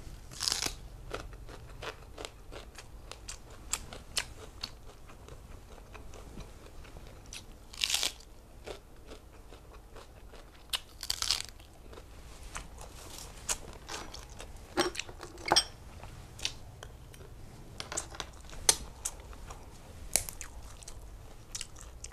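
Close-miked mouth sounds of eating: chewing and crunching mouthfuls of rice, chilli-topped dip and raw vegetables, with many small wet clicks and a few louder crunches about half a second, eight and eleven seconds in.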